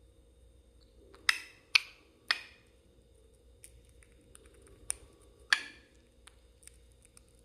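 A sun conure making a few short, sharp chirps and clicks: three in quick succession about a second in, then two more a few seconds later.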